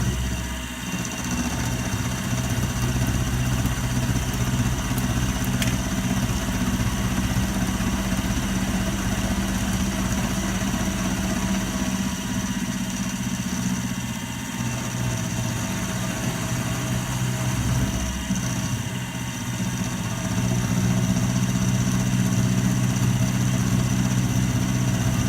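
Milling machine running with a steady mechanical hum, a little louder for the last few seconds.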